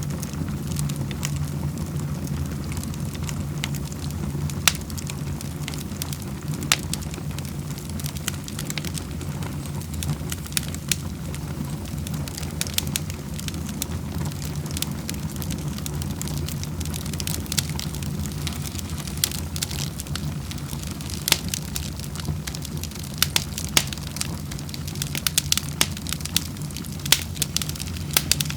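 Wood fire crackling in a fireplace: a steady low rumble of burning with frequent sharp pops and snaps, which come thicker near the end.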